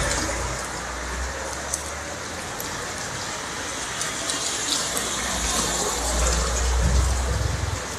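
Heavy rain pouring down in a steady hiss, with a low rumble swelling near the end.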